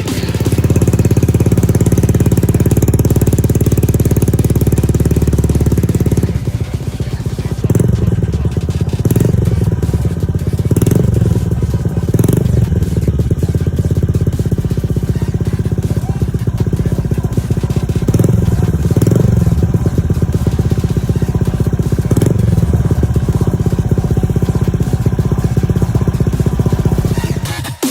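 Honda Click 125i scooter's single-cylinder four-stroke engine running through an aftermarket Akrapovic exhaust. It runs steadily for about six seconds, then the throttle is blipped again and again, roughly once every one to two seconds.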